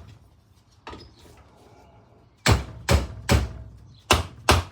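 Mallet blows on the nut threaded onto a mower deck blade spindle shaft, driving the shaft out of its bearing, which is held on the claw of a hammer clamped in a vise. One light knock about a second in, then a pause, then a run of five sharp blows, about two or three a second.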